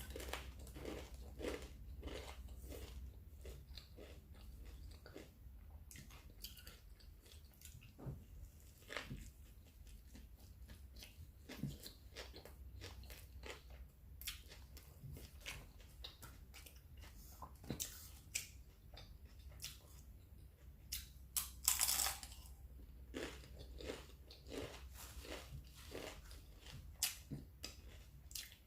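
A person chewing and biting food close to the microphone, with many small wet clicks and crunches and one louder crunch about three quarters of the way in.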